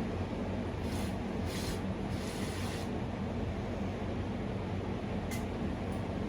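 Central Machinery wood lathe running steadily with a low motor hum, and several short hissy scrapes as a tool or abrasive touches the spinning maple bowl, the longest about two seconds in.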